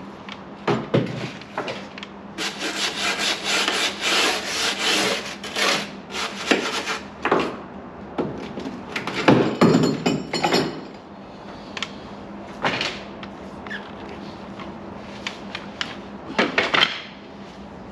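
Irregular hand scraping and rubbing strokes with a few knocks, metalwork on a vehicle sill. There is a dense run of strokes early on, the loudest burst a little past the middle, and scattered strokes near the end.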